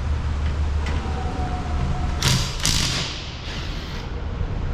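Cordless impact wrench fired in two short bursts about two seconds in, loosening a nut on an electrical connection, over a steady low hum.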